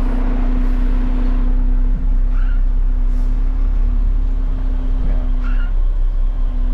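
Garbage truck's diesel engine running steadily, heard from inside the cab as a heavy low rumble with a steady whine on top.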